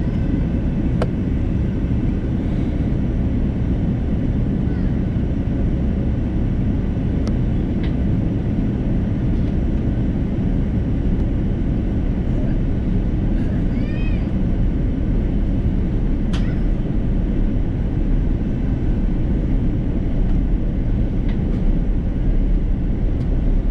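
Steady cabin noise inside an Airbus A330 airliner: an even low rumble of engines and airflow. A few faint clicks and one short high chirp about 14 seconds in.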